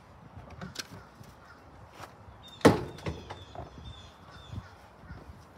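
Knocks and clicks from handling a push mower while it is primed for starting, with one sharp, much louder knock about halfway through. A bird calls faintly in the background.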